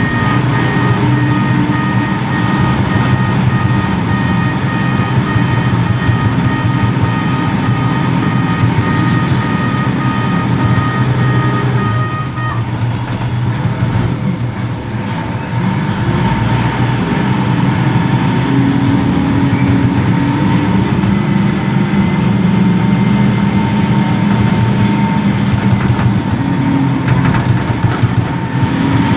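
Heavy diesel engine of a container reach stacker running, with steady high-pitched whines over it; two of the whines cut off about twelve seconds in, just as a short high hiss sounds.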